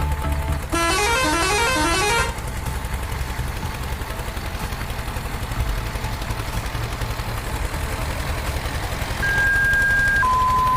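Cartoon sound effects: a quick rising run of electronic notes, then a steady low vehicle-engine rumble, and near the end a series of pure electronic tones stepping down in pitch.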